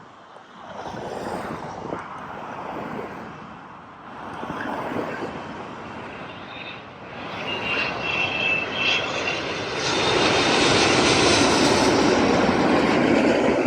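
Jet engine noise of a landing Airbus A380, a rushing roar that swells unevenly and grows loud about ten seconds in, with a faint high whine partway through, then cuts off abruptly at the end.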